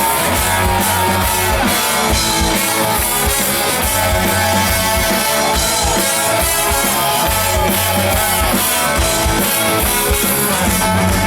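Live rock band playing an instrumental passage between vocal lines, with drum kit and guitar keeping a steady beat.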